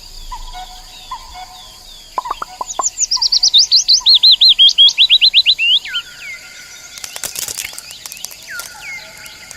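Birdsong: a songbird gives a loud, rapid run of chirps, each sweeping downward in pitch, lasting about three seconds, while another bird repeats short call notes in the background. A few sharp clicks come shortly before the run and again near the end.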